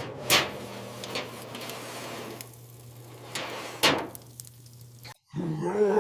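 Four sharp knocks, spread out, over a steady low hum that cuts off suddenly about five seconds in, followed by a short low voice-like sound at the end.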